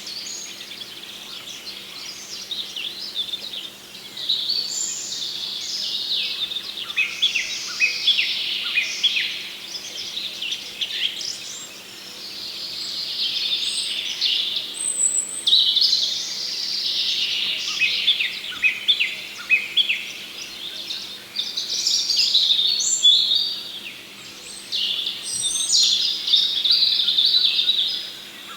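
A chorus of small songbirds chirping and twittering, many short overlapping high notes with no pause, over a faint steady low hum.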